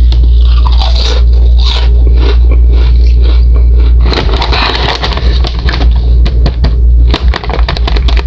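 Crunchy chips being bitten and chewed close to the microphone: a steady run of crisp crunches.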